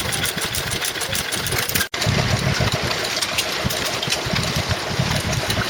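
Vintage stationary engines running steadily, with a fast, regular beat of firing strokes. The sound drops out for an instant about two seconds in, then carries on.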